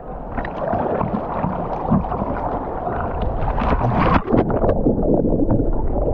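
Ocean surf breaking and water splashing close to the microphone: a dense, steady rush with many small splashes.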